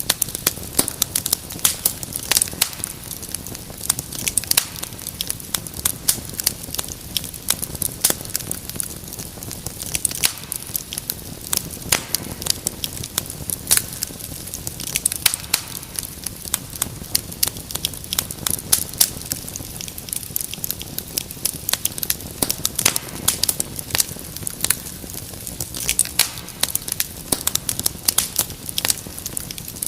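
Wood fire crackling steadily: many irregular sharp pops and snaps over a low, even hiss of burning.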